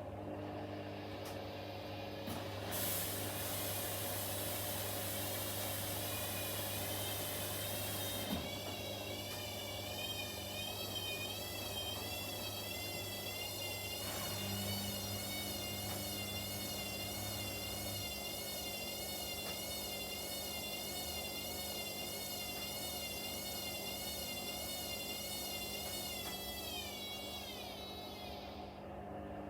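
Front-loading washing machine running, its drum motor giving a high whine that wavers up and down in pitch over a steady hum. Near the end the whine slides down and fades as the motor slows.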